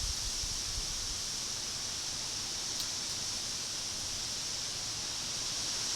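Steady high hiss of outdoor ambience picked up by a trail camera's microphone, with a faint tick or two near the middle.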